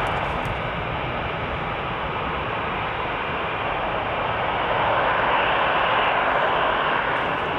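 Aircraft engine noise from a jet airliner, a steady whooshing rumble that grows louder about five seconds in and eases slightly near the end.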